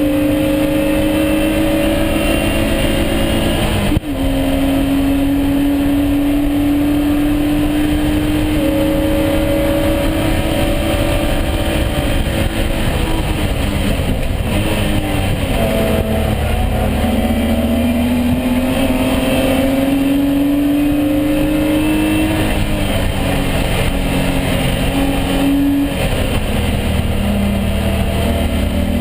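BMW E36 race car's engine running hard under load, its pitch climbing slowly as it pulls, with sharp drops at upshifts about four seconds in and again near the end. In the middle the revs fall away for several seconds as the car slows, then climb steadily again.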